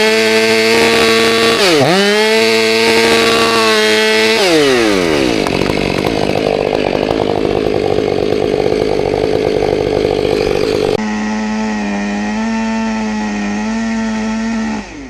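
Chainsaw running at full throttle, its pitch dipping sharply once about two seconds in and sliding down about four seconds in. A rougher, noisier stretch follows. Then a saw runs at high revs again, wavering slightly, and cuts off just before the end.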